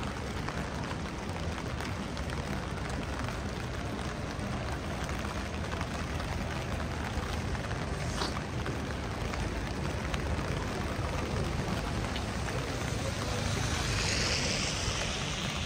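Steady rain falling on a city street, an even hiss, with a louder high hiss swelling and fading near the end.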